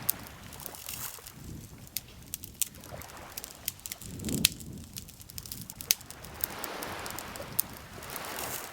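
Wood campfire crackling, with sharp pops at irregular intervals and one louder, duller pop about four seconds in, over a soft rushing background that swells and fades.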